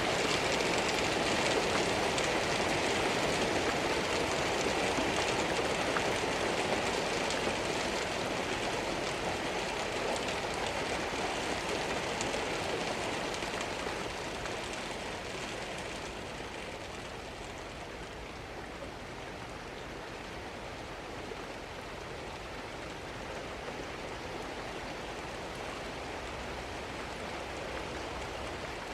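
Steady rain falling and pattering on surfaces, easing off somewhat about halfway through.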